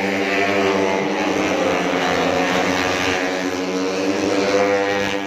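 150cc four-stroke underbone race motorcycles running at high revs, a steady engine drone.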